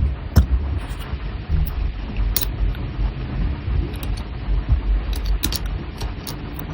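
Sharp clicks and light taps of small metal tools on watch parts, several in the second half, over a steady low rumble.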